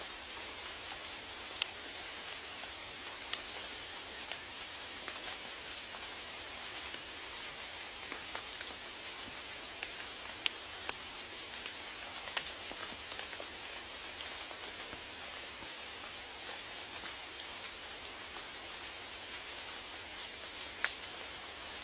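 Steady rain falling, with a constant hiss and scattered individual drops ticking sharply on a surface.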